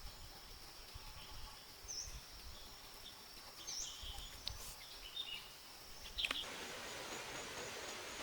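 Rural outdoor ambience: a steady high-pitched insect drone with a couple of short bird chirps, and soft low thumps. About six seconds in comes a sharp sound, and a steady hiss takes over.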